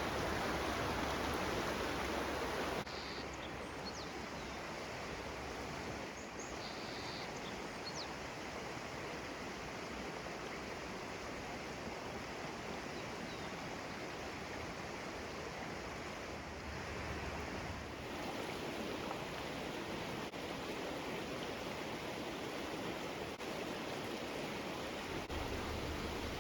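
Steady rushing of flowing water from a mountain stream or river, dropping slightly in level about three seconds in.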